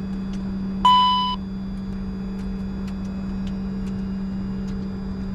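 Steady cockpit hum of a Bombardier Challenger 605 standing with both engines running after start. About a second in, a short electronic two-tone beep sounds once and fades within half a second.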